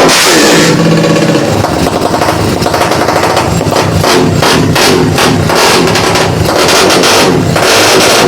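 Newly built 250cc motorcycle engine running loud, revved up and down repeatedly, its rapid firing pulses sounding as a sharp crackle.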